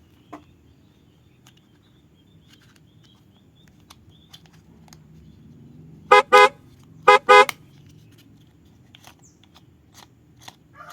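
Car horn honking four short beeps in two quick pairs about a second apart, around six seconds in. Between them there is a faint low rumble with scattered light clicks.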